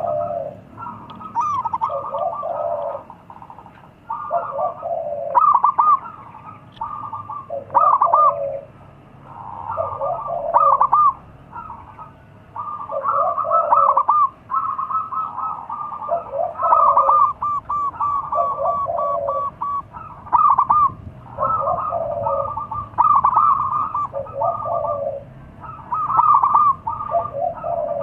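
Zebra dove (perkutut) cooing, phrase after phrase every couple of seconds: quick rippling runs of high notes mixed with lower coos.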